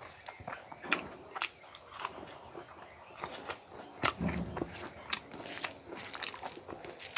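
Close-miked eating: chewing with irregular sharp crunches and clicks, and a dull low thump about four seconds in. Fingers mix rice and curry on a steel plate.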